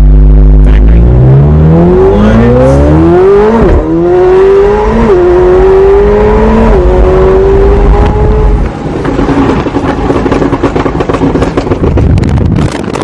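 McLaren 720S's twin-turbo V8 pulling hard under full acceleration. Its pitch climbs and drops at three quick upshifts, then it eases off about two-thirds of the way in.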